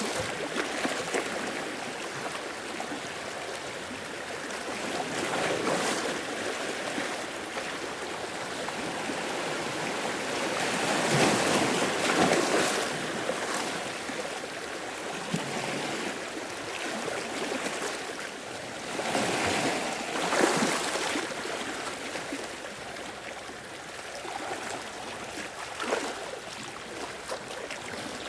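Sea waves washing in: a continuous rush of surf that swells into louder surges twice, around the middle and again about two-thirds of the way through.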